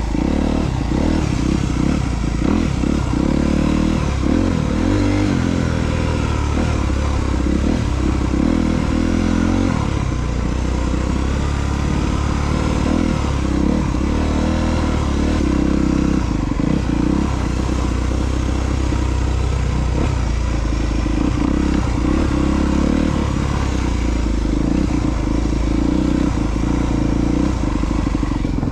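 2022 Honda CRF250R's single-cylinder four-stroke engine running under a rider on a trail, with its revs rising and falling as the throttle is worked.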